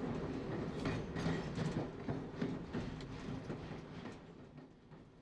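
Metropolitan line A Stock train running on the track, heard from the cab: a steady low hum with wheel clicks over the rails. It fades away near the end.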